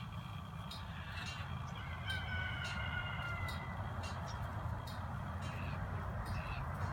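Bird calls: a drawn-out honking call about two seconds in, then several short squawks, over a low steady rumble.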